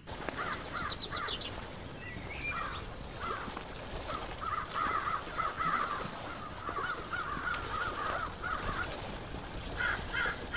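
Birds calling in a forest ambience: a long run of short, repeated calls over a steady background hiss.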